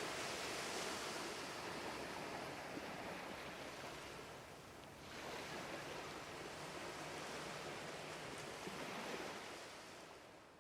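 Ocean surf washing onto a beach: an even rush that eases about four to five seconds in, swells again, and fades away near the end.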